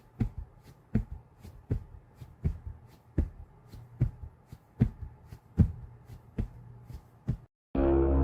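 Steady, regular thumps about every three-quarters of a second, some followed by a weaker second beat, stopping abruptly; after a brief silence, music starts near the end.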